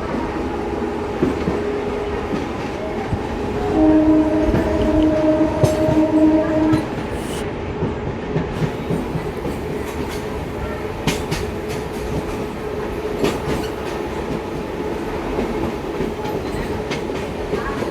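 Passenger train running on the rails, the wheels clicking over rail joints. About four seconds in, the locomotive's horn sounds for about three seconds.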